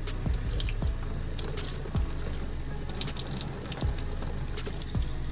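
Water running from a sink tap, with background music carrying a steady beat of about one thump a second.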